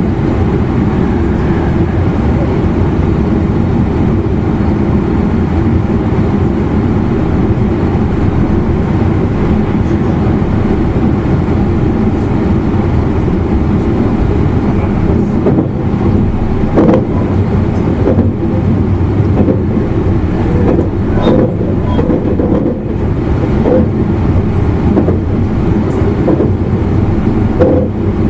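Running noise inside a car of an E259 series Narita Express EMU: a steady loud rumble of wheels on rail. In the second half it is broken by a string of short, sharp knocks as the wheels pass over track joints.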